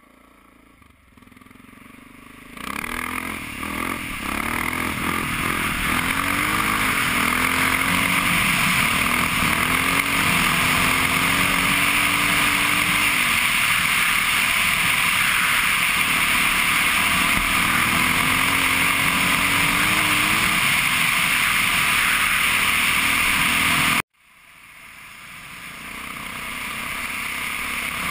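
Honda XR650R dirt bike's single-cylinder four-stroke engine running under way on a gravel road, its pitch rising and falling with the throttle, under a strong steady hiss of wind and road noise. The sound fades up in the first couple of seconds, cuts out abruptly about four seconds before the end, and fades back in.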